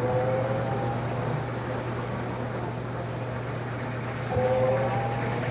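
Magic Chef 1.6 cu ft portable washing machine in its spin cycle: a steady motor hum under a rising whine that fades about a second in and comes back, rising again, about four seconds in.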